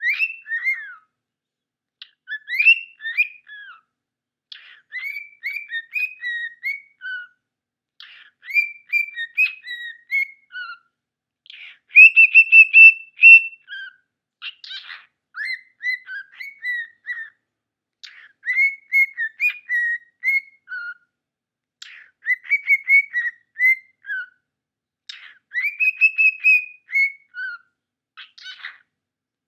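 Male cockatiel whistling a learned tune, phrase after phrase of short rising and falling whistled notes with brief pauses between them; one phrase about twelve seconds in is the loudest, a longer held note.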